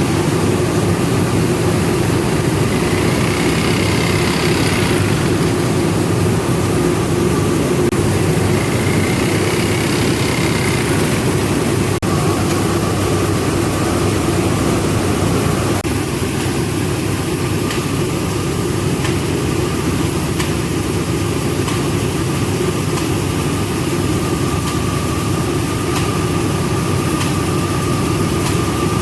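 Rice milling machinery running steadily: a loud, continuous mechanical hum with a steady higher whine over it, easing slightly in level about halfway through.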